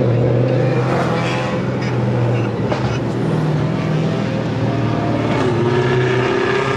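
Car engine running loudly close by, its pitch climbing a little near the end as it revs up.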